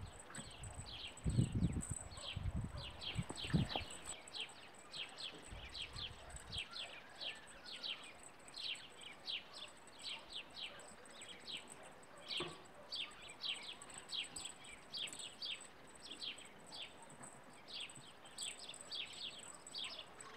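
Small birds chirping, a quick unbroken run of short, high, falling chirps, several a second, over a faint steady high tone. A few low thumps in the first four seconds.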